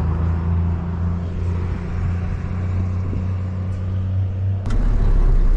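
Delivery truck engine running steadily. About three-quarters of the way through, a sharp click comes, and the engine note turns deeper and louder.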